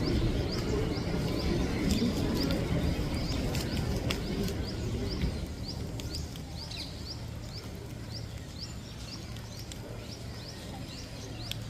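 A small bird chirping over and over, short rising chirps about twice a second, over a low outdoor background murmur that fades about halfway through.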